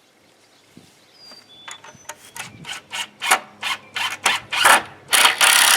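Hand saw cutting through a wooden board: rasping back-and-forth strokes, about three a second, getting louder, with the last few strokes longer.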